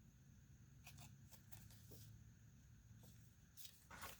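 Near silence: quiet room tone with a low hum and a few faint, brief clicks and a soft rustle, like paper items being handled.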